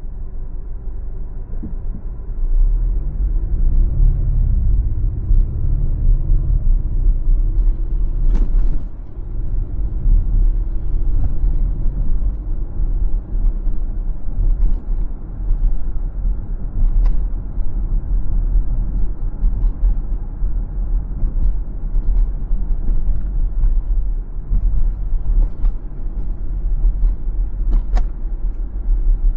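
A car driving: steady low engine and road rumble, the engine tone rising as it accelerates from about two seconds in, with a few sharp knocks, the loudest about eight seconds in.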